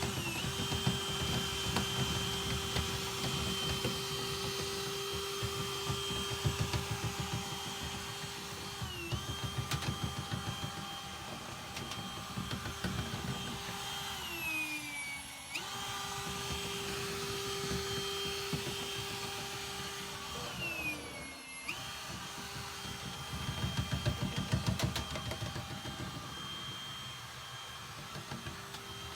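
A small electric motor on a cleaning tool runs with a steady whine. It bogs down and sags in pitch three times under load, then picks back up, over a rough rattling scrape.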